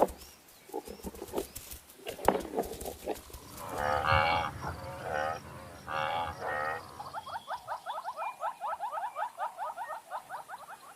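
African buffalo bellowing, several drawn-out lowing calls, after a few scattered knocks and thuds. It gives way to a fast run of short repeated call notes, about six a second.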